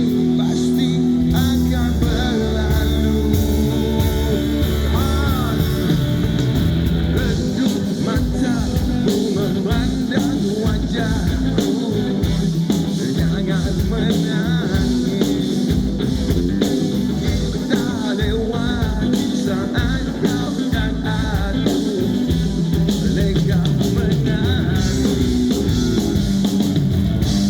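Live rock band playing loudly, with a wavering melody line over bass and drums.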